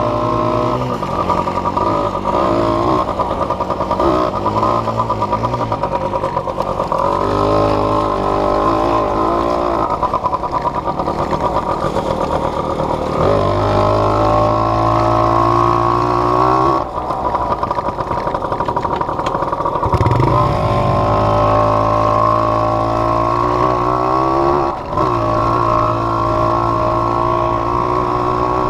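Small off-road vehicle engine, heard from the rider's chest mount, running under load over uneven throttle. In the second half it makes three long pulls that rise in pitch, with a short drop between them as the throttle closes or a gear changes.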